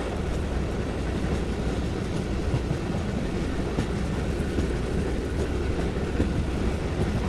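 Passenger train running at speed, heard from on board: a steady rumble of wheels on rails with a few faint clicks.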